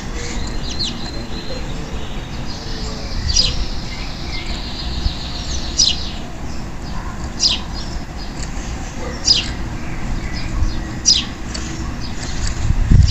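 Male Belgian canary giving short, high chirps every second or two, with a brief rapid trill a few seconds in, over a steady low background rumble.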